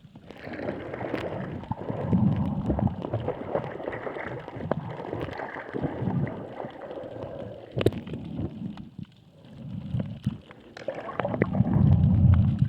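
Water sloshing and gurgling against a boat's hull, uneven and noisy, with scattered sharp knocks. It dips quieter about two-thirds of the way through, then grows louder near the end.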